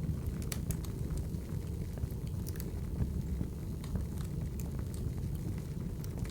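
Wood fire crackling: a steady low rumble with scattered sharp pops and snaps.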